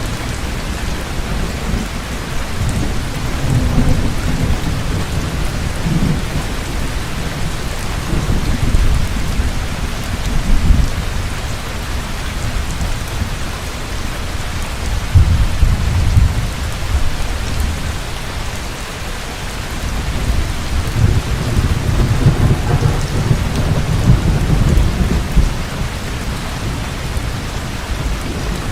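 Heavy rain falling steadily, with low rolling thunder that swells and fades several times, strongest about midway and again in the last third.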